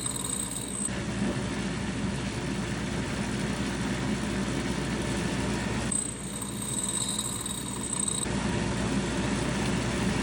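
Electric grinder running, smoothing the rough ends of steel tong reins. A steady motor sound carries a high whine that gives way twice to a broader hiss: from about a second in until about six seconds, and again from about eight seconds on.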